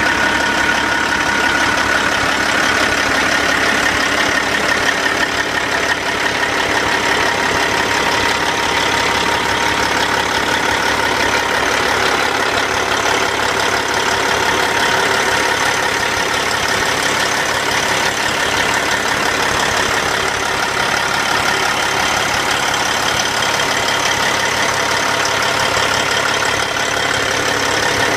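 Cat C15 diesel engine of a 2007 Peterbilt 379 highway tractor idling steadily, with a steady high whine over the engine note.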